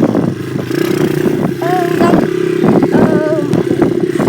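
Dirt bike engine running at a steady, even speed, with no revving.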